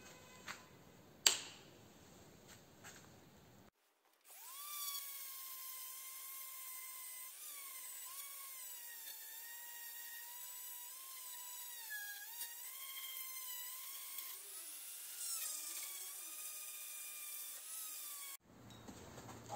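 Small high-speed power tool whining for about fourteen seconds, its pitch wavering and dipping now and then as it bites into the work. Before it starts there is a sharp knock and a few light ticks.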